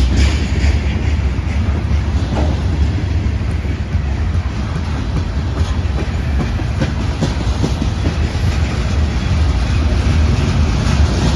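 CSX freight train rolling past, its wheels clacking over the rail joints over a steady low rumble.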